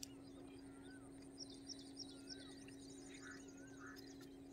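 Faint birdsong from several birds: repeated short high chirps, a few slurred whistled notes and a brief trill, over a faint steady hum.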